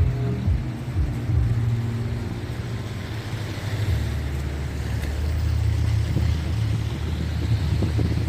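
Motor traffic on a snowy city street: a vehicle engine's steady low rumble that grows fuller about halfway through, over an even hiss of street noise.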